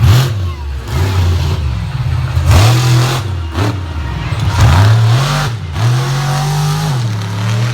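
Monster truck engine revved hard, its note climbing and dropping again and again. Several sharp cracks cut through the engine noise.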